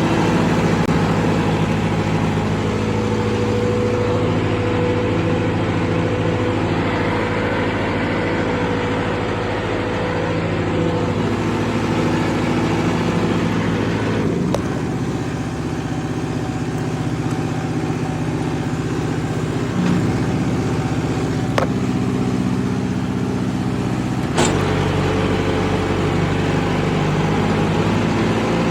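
Tractor engine running steadily, its tone shifting abruptly about halfway through and again shortly before the end.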